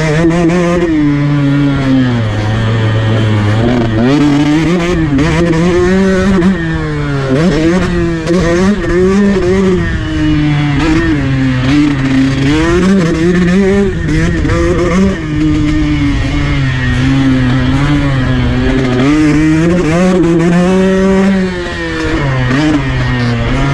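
KTM 150 SX two-stroke dirt bike engine being ridden hard, its pitch climbing and falling over and over as the throttle opens and closes, with brief dips when the throttle is shut off twice.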